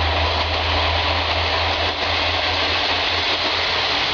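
A train running past, a steady low hum under an even hiss.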